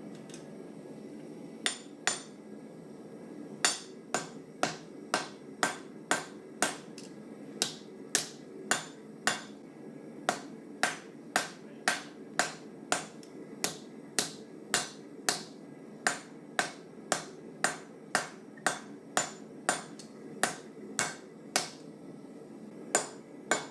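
Hand hammer striking hot 1084 carbon-steel stock on an anvil: two blows, then a steady run of ringing blows about two a second. A steady low noise runs beneath.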